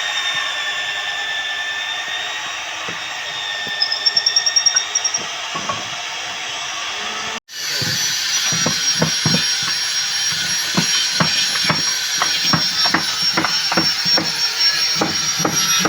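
Tool work: a steady machine whine with a short rapid rattle a few seconds in. After a sudden cut about halfway, a run of irregular sharp knocks like hammering begins over the whine.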